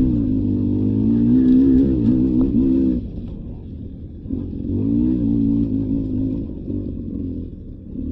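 Beta 300 RR two-stroke dirt bike engine pulling under throttle, the revs wavering up and down. About three seconds in the throttle closes and it drops to a quieter low run, then picks up again for a couple of seconds before easing off once more.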